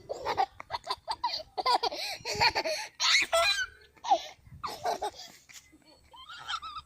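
Young children laughing in quick, high-pitched bursts, with a little speech mixed in.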